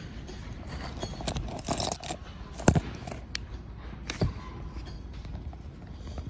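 Handling noise: a few sharp metallic clicks and a short rattle, spaced a second or so apart, over a low steady background.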